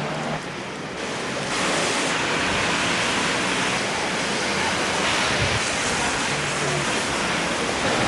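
Steady hiss of heavy rain on a wet street, growing louder about a second and a half in. A faint low hum sits under it near the start and again near the end.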